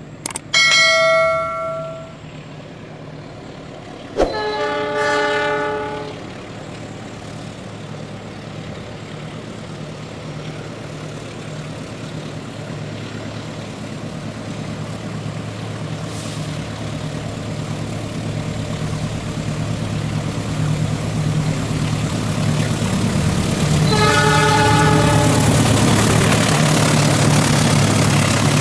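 Indonesian diesel locomotive sounding its multi-note air horn: a blast about a second in, another about four seconds in and a third near the end. Under the horn its engine throbs steadily and grows louder as the train approaches, with rushing rail noise building at the end.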